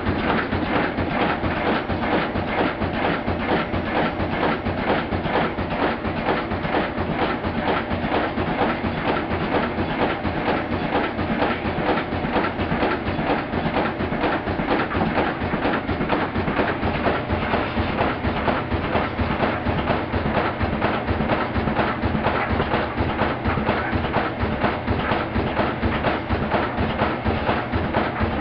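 Washing machine loaded with heavy bathroom rugs, making a lot of noise: a loud, steady, rapid knocking beat as the heavy load thuds around in the drum.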